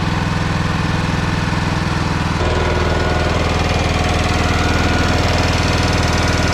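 Small gasoline engine running steadily at a constant speed, its note shifting abruptly a little over two seconds in and then running on evenly.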